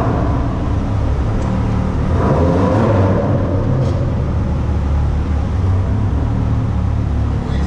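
Ferrari 360 Spider's V8 engine running while the car drives, a steady low drone that rises briefly in pitch about two seconds in and settles again.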